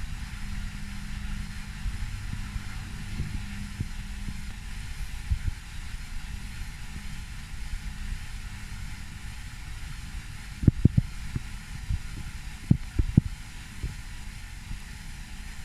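Front-loading washing machine's drum turning with a heavy blanket inside just before the final spin, a low motor hum with dull knocks, and several louder thumps about two-thirds of the way through as the load drops in the drum.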